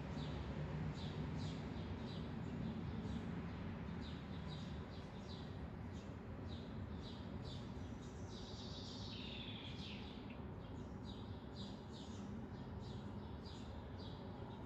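Small birds chirping in short repeated calls, about two a second, with a longer falling trill about eight seconds in, over a steady low background hum.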